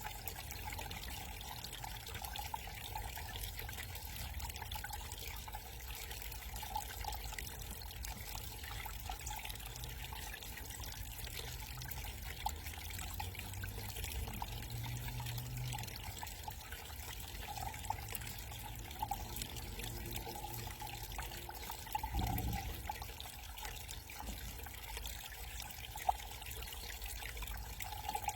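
Small garden waterfall trickling and splashing steadily, with a brief low bump about two-thirds of the way through.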